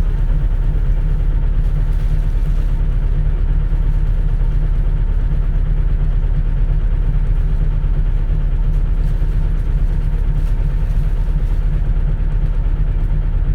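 Compressed natural gas (CNG) city bus running steadily, heard from inside the passenger cabin as an even low rumble.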